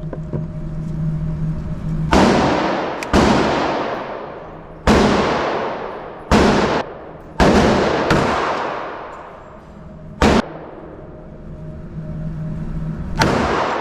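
Glock 17 9mm pistol fired about seven times at an irregular pace, a second or more apart, each shot echoing and dying away over a second or two in an indoor range. A steady low hum from the range ventilation runs underneath.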